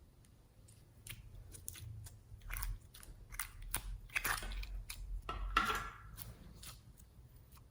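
Slime being worked and mixed by hand, giving a run of sticky clicks and crackling pops. There are two longer, louder squelching pulls about four and five and a half seconds in.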